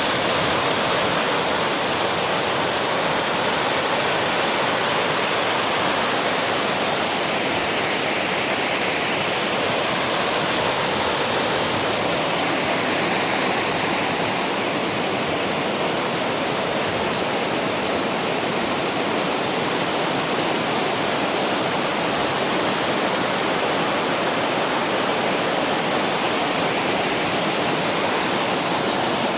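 Falling water of a mountain waterfall: a loud, steady, unbroken rush.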